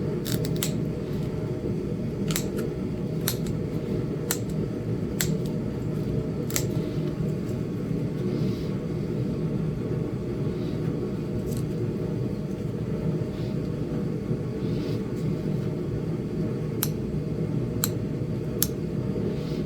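Sharp, isolated clicks of small flakes snapping off a Flint Ridge chert bird point as it is knapped, about a dozen spread unevenly and bunched near the start and near the end. A steady low hum runs underneath.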